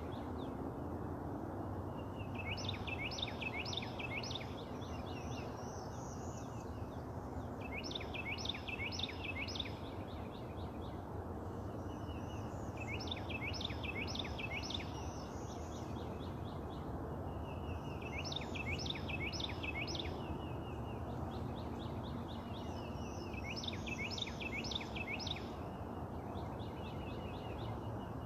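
A songbird singing the same short phrase over and over, about every five seconds: a brief trill followed by four or five quick, sharp, falling notes. Steady background noise underneath.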